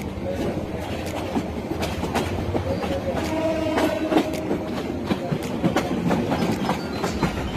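Passenger train running on the rails, its wheels clicking over the track joints against a continuous rumble.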